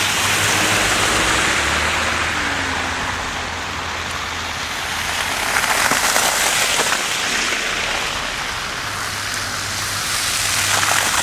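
Cars passing on a wet, slushy road: a steady tyre hiss that swells and fades twice, with a low engine rumble under it.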